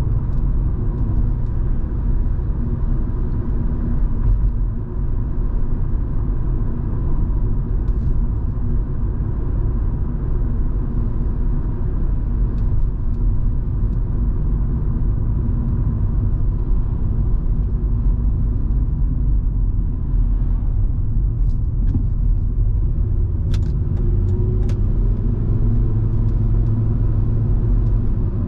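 Volvo V70 2.5T's turbocharged five-cylinder engine and tyres, heard from inside the cabin while driving: a steady low rumble. A faint rising tone comes in near the end.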